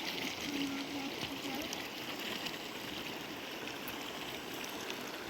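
River water running steadily, an even rushing and trickling.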